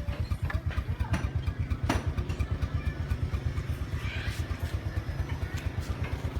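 Motorcycle engine idling with a steady, fast, even putter, with a few light clicks over it.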